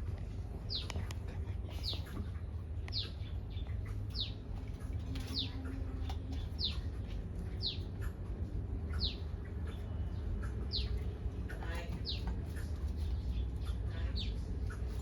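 A bird repeats a short, high call that slides downward in pitch, about once a second, over a steady low rumble.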